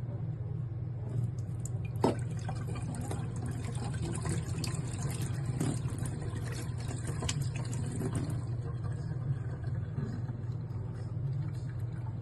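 Water bubbling and splashing in a stainless-steel electric kettle, with crackling over a steady low hum. A sharp click comes about two seconds in.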